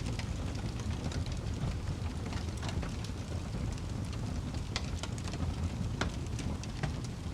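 Wood fire crackling: a steady low rumble of flames with irregular sharp pops and snaps, several a second.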